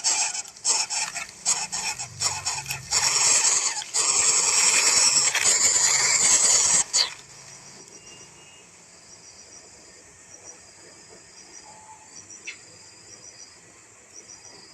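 Loud rough crackling and rustling noise with quick clicks that cuts off suddenly about seven seconds in. After that, crickets chirp faintly in short repeated pulses.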